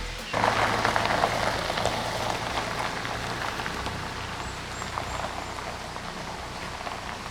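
Steady patter of falling water, like rain, with many small drop ticks. It starts suddenly just after the start and eases slowly.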